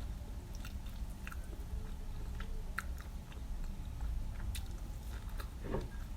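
A person chewing and biting food close to the microphone, with irregular small wet clicks and smacks.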